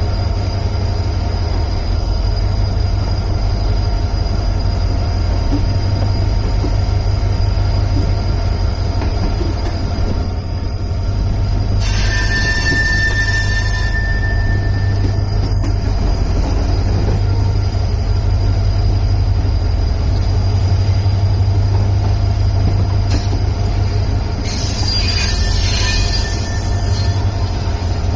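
Shah Latif Express passenger train running with a heavy, steady rumble. Its wheels squeal in two high-pitched bursts: one of about two seconds, roughly twelve seconds in, and another near the end.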